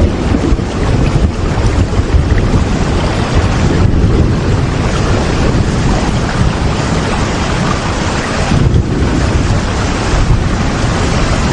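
Heavy rain falling in a steady, dense rush, with strong low rumble and no letup.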